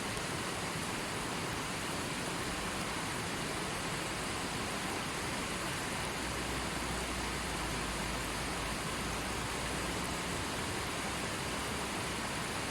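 River water flowing, a steady, even rush of moving water with no breaks.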